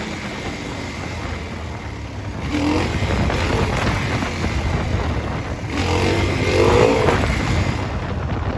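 Dual-sport dirt bike engine running while riding, revving up twice, with wind rumbling on the microphone.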